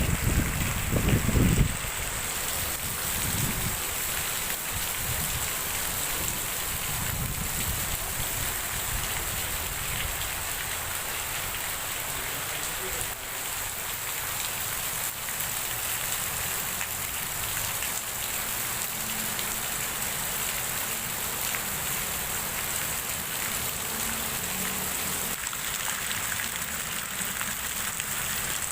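Heavy rain falling steadily, an even hiss of rain on surfaces. A loud low rumble in the first couple of seconds, then weaker low rumbles.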